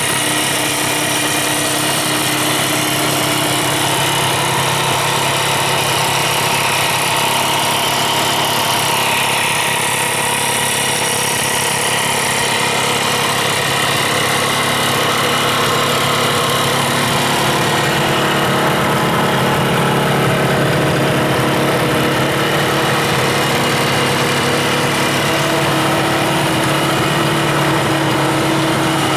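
Kawasaki 350SS (S2) air-cooled two-stroke three-cylinder engine running steadily at idle.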